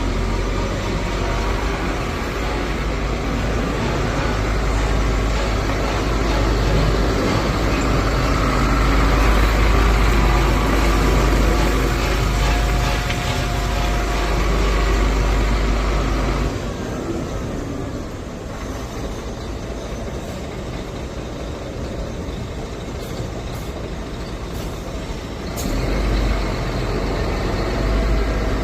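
Scania truck engine running with a heavy low rumble. About two thirds of the way through the rumble drops away, and it comes back near the end just after a sharp click.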